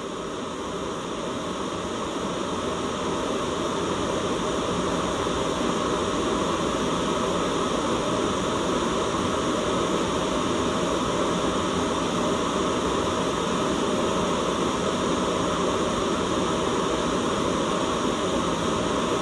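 Steady white noise: a dense, even hiss with most of its weight in the low-middle range. It starts a little quieter and builds back to full level over the first few seconds.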